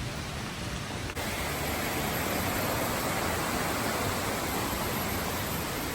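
Steady rushing noise with no distinct events, briefly broken about a second in.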